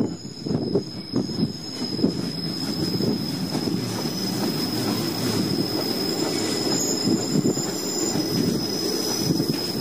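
Bernina Railway train wheels squealing on a tight spiral curve: one steady high-pitched squeal over the rumble and clatter of the wheels on the rails, with a few brief higher squeals joining in about seven seconds in.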